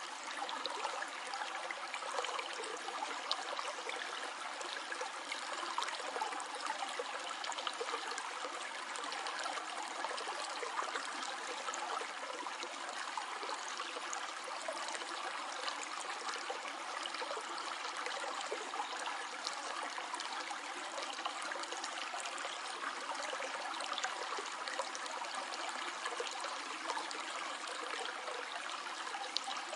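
Stream water flowing steadily, a continuous rush laced with small trickling splashes.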